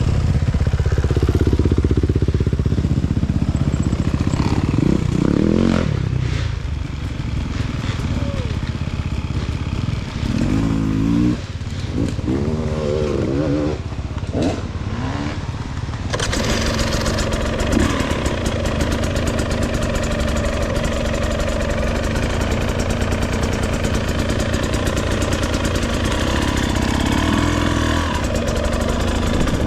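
Off-road motorcycle engine running while riding a dirt trail, the revs rising and falling several times; about halfway through the sound changes abruptly to a steadier run with more hiss.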